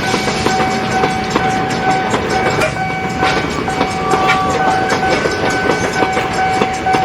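A train passing close by, its wheels clattering over the rail joints in a dense, continuous rattle, with a steady high-pitched tone that drops out briefly about halfway through.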